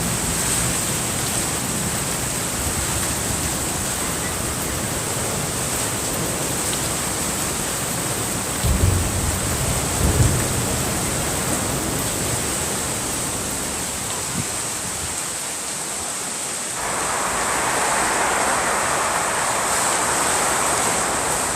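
Strong wind blowing off the sea: a steady rushing noise, with low buffeting thumps on the microphone about nine and ten seconds in. About two-thirds of the way through, a louder, brighter rushing sets in.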